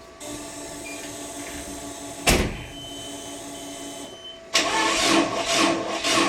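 Nissan 180SX being started on a flat battery. A steady hum comes on as the ignition is switched on, a sharp knock follows about two seconds in, and from about four and a half seconds the starter cranks the RB25DET engine slowly and labouring, in a slow pulsing rhythm, without it catching.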